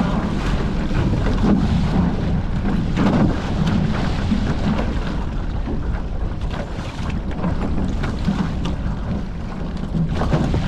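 Wind buffeting the microphone over water rushing along the hulls of a Hobie 14 catamaran under sail, with the level steady and an occasional short splash.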